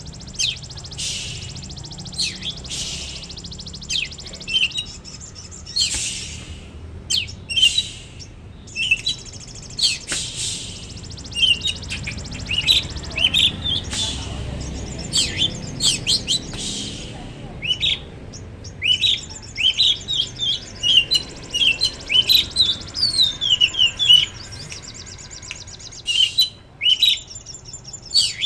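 A songbird chirping and singing: many short, high, sharp chirps and quick trills, with a steady low rumble underneath.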